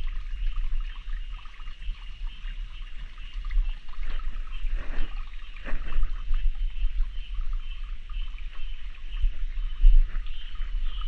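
Water trickling and pouring in a small rainforest stream, under a steady high-pitched chorus of calling animals, with a low rumble throughout.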